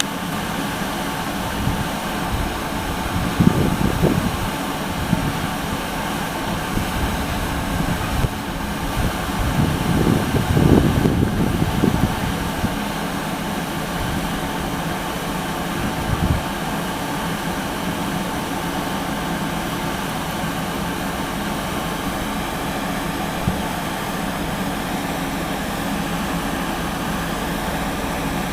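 Military aircraft flying past, a steady engine noise that swells louder twice, about three and ten seconds in.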